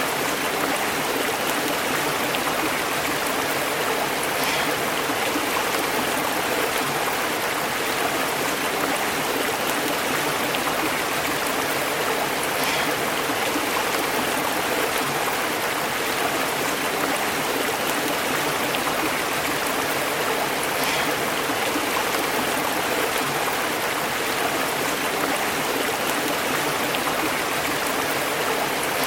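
Stream water bubbling over rocks, a steady, unbroken rush.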